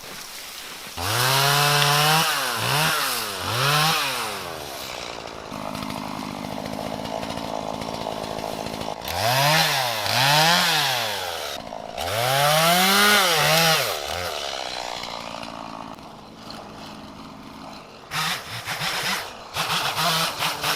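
Two-stroke chainsaw revved up and down in several bursts, its pitch climbing and falling each time, and idling between the bursts. A quick run of knocks comes near the end.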